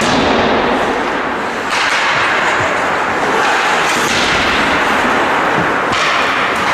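Ice hockey play on a rink: a steady scraping hiss of skates on ice with scattered sharp clicks and knocks of sticks and puck.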